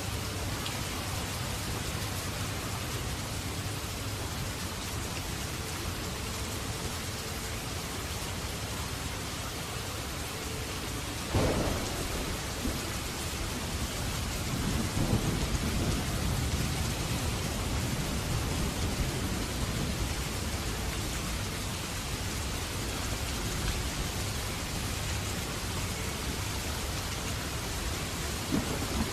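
Steady heavy rain with a thunderclap about eleven seconds in, followed by a long low rumble of thunder.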